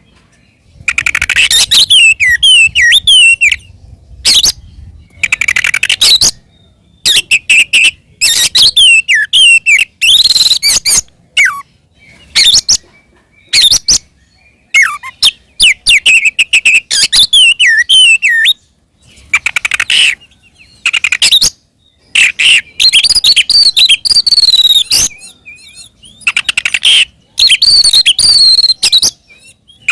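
Oriental magpie-robin (kacer) singing loudly in phrases of varied whistles and rapid trills, each a second or two long with short pauses between them. This is the bird's full, open fighting song ('ngeplong tarung'), the kind played to provoke rival kacer into answering.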